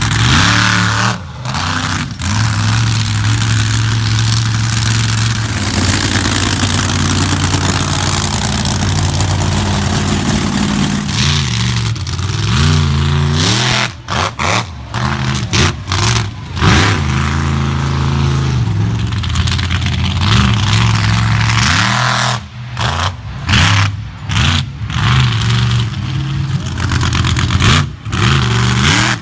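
Monster truck engine running hard and revving, its pitch rising and falling several times. In the second half the throttle is blipped on and off in quick, sharp bursts.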